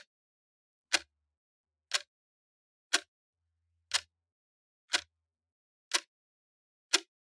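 Clock ticking, one sharp tick a second with silence between.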